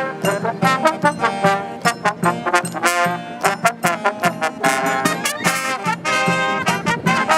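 Marching brass band playing an up-tempo medley of Japanese festival songs, trumpets and trombones over a steady drum beat.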